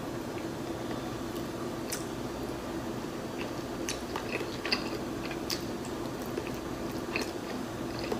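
Chewing and biting into a soft shrimp rice noodle roll, with wet mouth sounds and a few sharp clicks scattered through, the loudest about halfway through. A steady low hum runs underneath.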